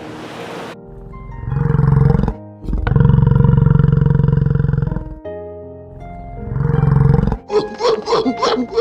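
A large animal's deep roars, three of them, the middle one the longest, over soft background music. Near the end a rapid run of short repeated calls takes over.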